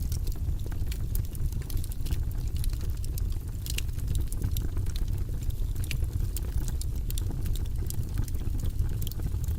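Fire in a fireplace crackling, with many small sharp pops at irregular intervals over a steady low rumble of the flames.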